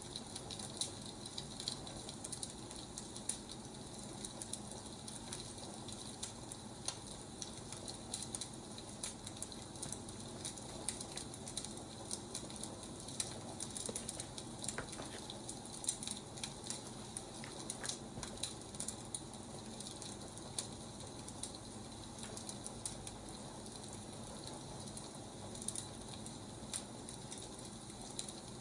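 Wood fire burning, crackling steadily with frequent small sharp pops over a soft steady hiss.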